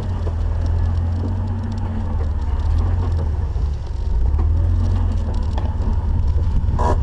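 Off-road Jeep running at trail speed, a steady low rumble, with one brief sharp sound near the end.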